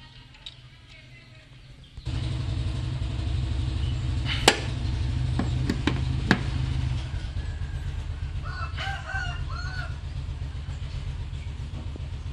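Toyota Yaris petrol engine catching about two seconds in and running at a fast idle, which eases down slightly around seven seconds, with a few sharp clicks. A rooster crows in the background about two-thirds of the way through.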